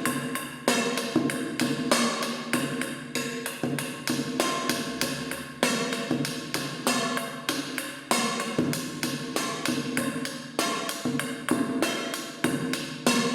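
Rhythmic drumming on a metal can: quick, regular strikes, each with a short ringing tone.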